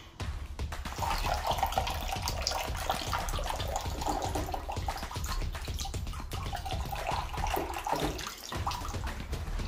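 Water poured from a jug into a low header tank, a steady pour that starts about a second in and runs on for several seconds.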